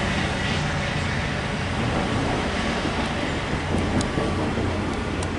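Diesel locomotive of a MARC commuter train running along the track, a steady low engine drone mixed with rolling rail noise. A couple of short sharp ticks near the end.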